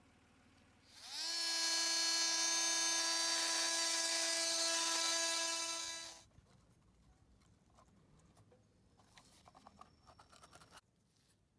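A small electric motor spins up quickly about a second in, runs at a steady high pitch for about five seconds, then stops; faint clicks and handling noises follow.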